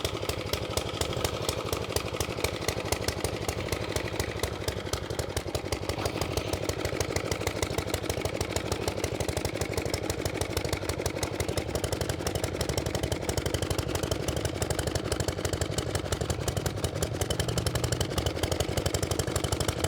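1911 LMC motorcycle engine running steadily, a quick even beat of firing pulses with some mechanical clatter.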